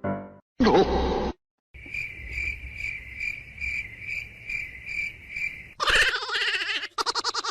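Cricket chirping steadily, about two chirps a second, for about four seconds. A short loud sound comes just before it, and loud music cuts in near the end.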